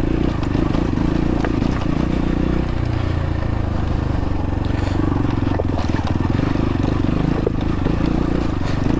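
X-Pro Templar X 250 dirt bike engine running under throttle on a rocky climb, its note shifting as the throttle changes. A few sharp knocks of the bike striking rocks come through over it.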